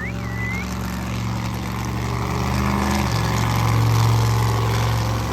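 Monster truck engine running, growing louder to a peak about four seconds in, its pitch shifting near the three-second mark.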